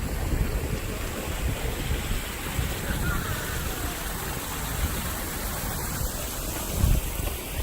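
Outdoor city-street ambience with wind rumbling on the microphone in uneven low gusts, one stronger gust near the end.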